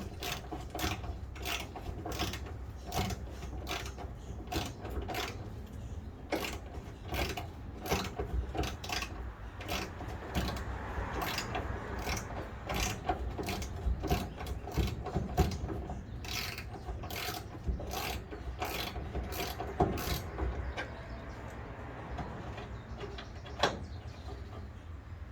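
Hand socket ratchet clicking steadily, a few clicks a second, as a bumper bolt is backed out; the clicks thin out near the end, with one sharper knock just before they stop.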